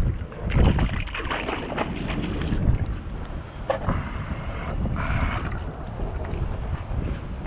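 Wind rumbling on the microphone aboard a small boat, gusting harder at times, with a short knock partway through.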